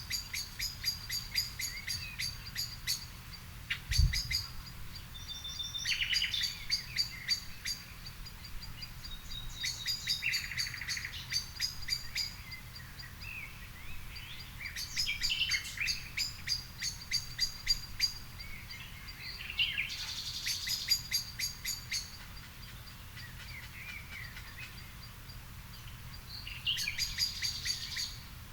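Songbirds singing in a garden: phrases of rapid, high chirping notes, each lasting a couple of seconds and coming every few seconds. There is a single low thump about four seconds in.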